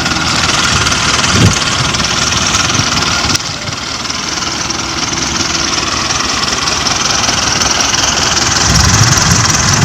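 Mahindra Arjun 555 DI tractor's diesel engine running steadily, with a short low thump about a second and a half in and a sudden drop in loudness a couple of seconds later.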